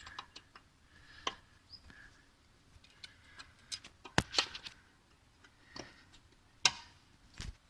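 Scattered small clicks and light knocks of rear brake caliper parts being handled and fitted by hand, with two sharper clicks about four seconds in and near the end.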